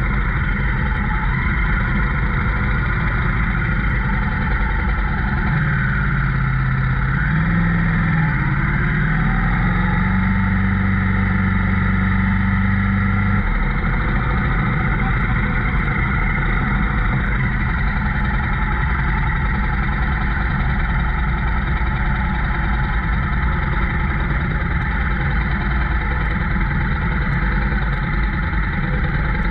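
Motorcycle on the move: a steady mix of engine and rushing wind, with a pitched engine note that shifts and steps up and down between about six and thirteen seconds in.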